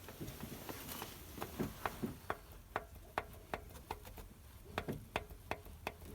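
Sharp metallic clicks repeating about two to three times a second, from hand work on a worn-out Lada Priora engine.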